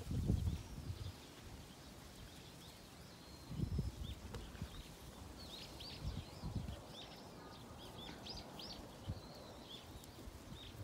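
Birds chirping in many short, high calls, thickest around the middle, with a few low thumps from handling or wind on the microphone.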